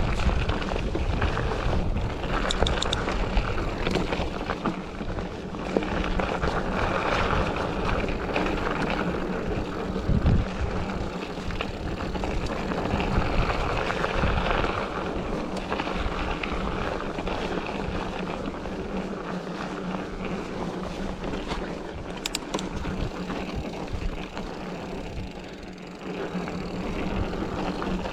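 Rushing wind on the microphone and road noise from a moving bike ride, with a steady low drone underneath.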